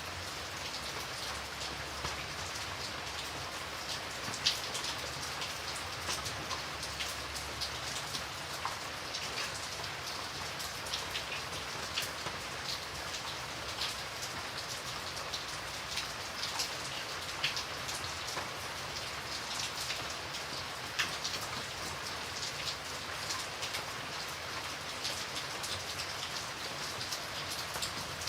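Steady rain falling, an even hiss with many sharp individual drops pattering on a surface.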